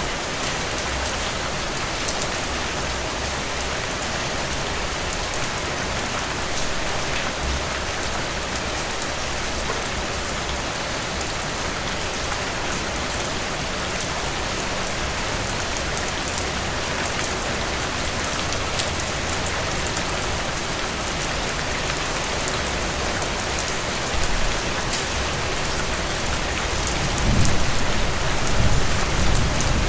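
Steady rainfall with many individual drops striking close by, a dense even hiss. A low rumble swells underneath near the end.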